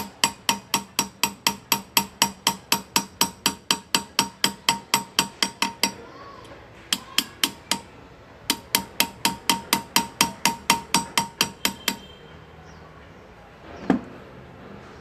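Hand engraver's small hammer tapping a chisel into metal, about five sharp ringing taps a second, pausing briefly about six seconds in and stopping near the end. A single dull thump follows shortly after.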